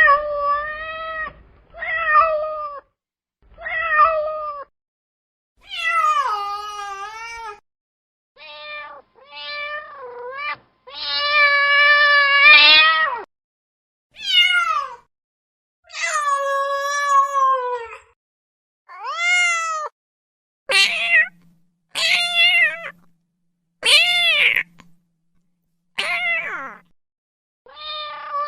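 Cats meowing, one call after another with short gaps: about fourteen high meows, several rising then falling in pitch, two of them long and drawn out.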